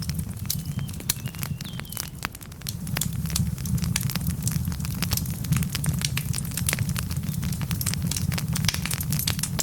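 Wood fire burning in a fireplace: logs crackling with frequent sharp pops over a low, steady rumble of the flames.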